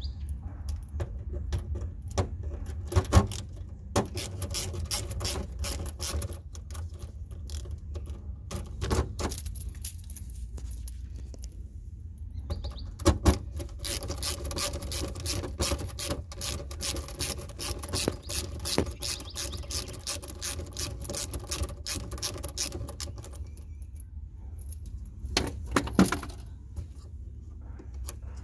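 Repeated clicks, clinks and knocks of hard parts being handled, with a busier stretch of rapid rattling through the middle.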